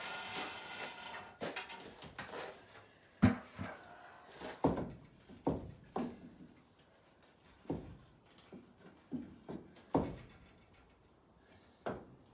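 A series of irregular knocks and thumps, about ten of them a second or so apart, like things being handled and set down.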